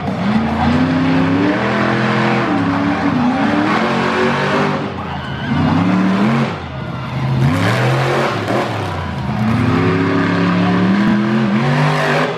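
Monster truck engine revving hard, its pitch rising and falling repeatedly as the throttle is worked.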